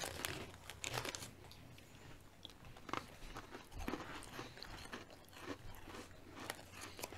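People biting and chewing Mini Cheddars, small crunchy cheese-flavoured biscuits: faint, irregular crisp crunches.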